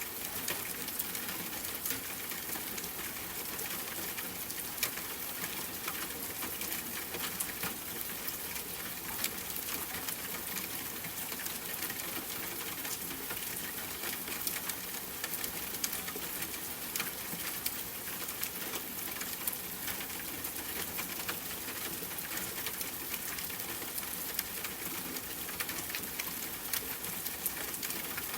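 Steady rain patter: an even hiss with many single drops ticking through it.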